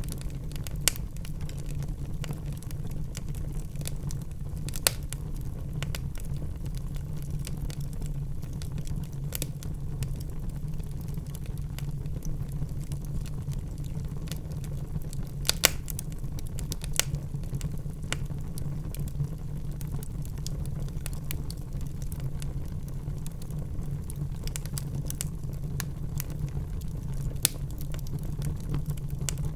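Wood fire crackling in a fireplace: a steady low rumble of the flames with sharp pops scattered through, a handful of them louder than the rest.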